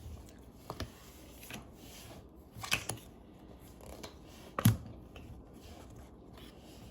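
Uno cards being handled and laid down: a few light clicks and taps, the loudest about four and a half seconds in.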